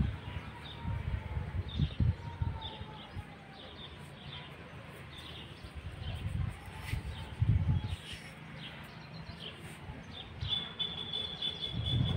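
Small birds chirping: short high chirps every half second or so, with one longer held whistle near the end. Low rumbling thumps come and go beneath them.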